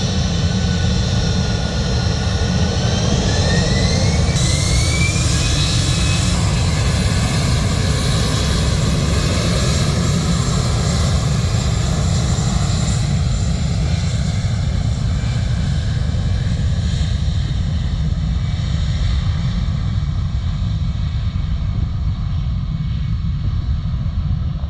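Jet airliner engines running loud and steady, with a rising whine about two to six seconds in, and the high end slowly fading toward the end.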